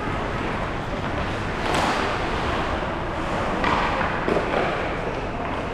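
Wind buffeting the microphone with a steady rumbling noise, with brief louder gusts or thuds about two seconds and four seconds in.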